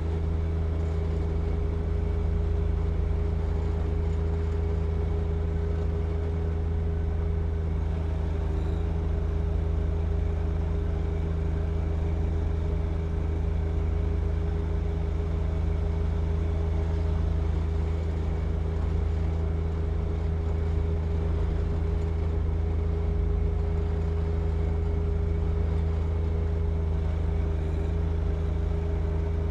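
John Deere 1025R compact tractor's three-cylinder diesel engine running steadily at a constant speed, a continuous low drone with no changes in pitch or level.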